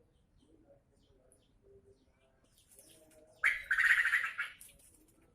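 A bird giving a loud, harsh call of about a second, starting a little past the middle, over faint low repeated calls.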